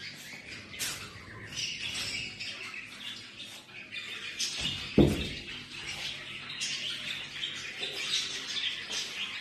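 Birds chirping continuously, with a single sharp thump about five seconds in.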